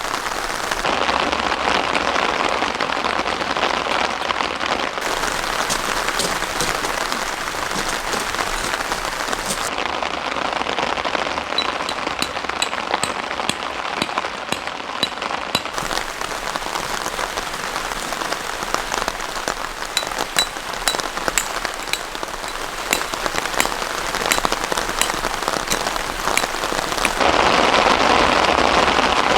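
Heavy rain falling steadily, with sharp individual drops ticking on a surface close by. The texture of the rain changes abruptly a few times.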